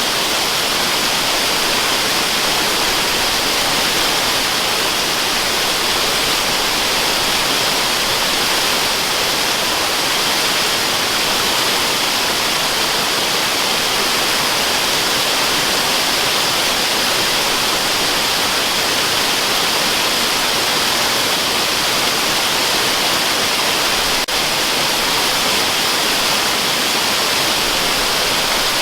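Waterfall rushing steadily, an even, unbroken hiss that is strongest in the upper range with little low rumble, used as white noise.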